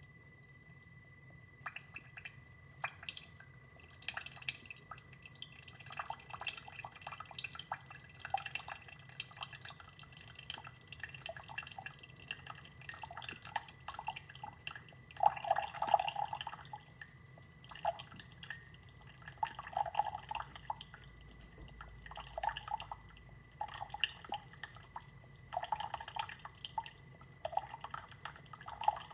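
Single-serve coffee maker brewing into a cup: liquid dripping and splashing in uneven spurts, with a faint steady high tone for the first few seconds.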